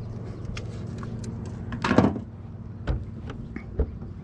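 Cricket container and gear being handled in the boat: a short scrape about two seconds in and a few light knocks, over a steady low hum.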